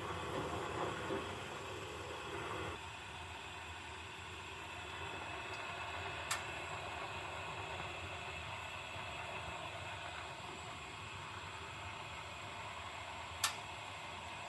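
Steady hiss of shop background noise, with two sharp clicks about six seconds apart.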